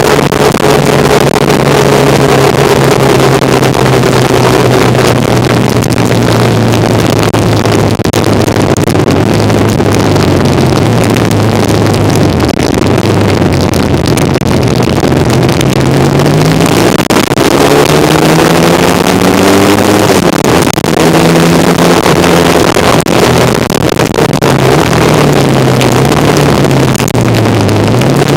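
1975 Kawasaki KZ400 motorcycle engine running while riding, with wind rushing past. The engine note holds steady, drops about halfway through, then climbs as the bike speeds up, and falls and rises again near the end.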